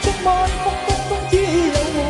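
A Cantopop song playing: a melody line over a steady drum beat of about two hits a second.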